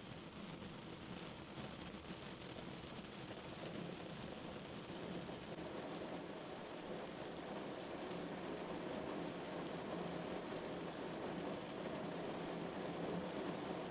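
Rain falling on a car, a steady patter of many drops, growing slightly louder toward the end.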